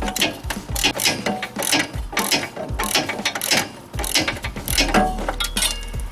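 Ratchet wrench clicking in quick, uneven strokes while working a bolt.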